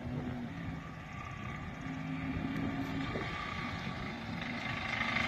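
V6 Chevy Camaro engine, which has a rod knock, running hard at steady revs during a burnout, a steady drone that slowly grows louder.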